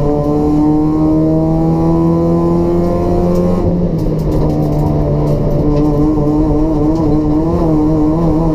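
Race-built Toyota Etios's 1.5-litre petrol engine through a free-flow exhaust, revs climbing steadily under load for about three and a half seconds, then dropping suddenly and holding fairly steady with small rises and falls.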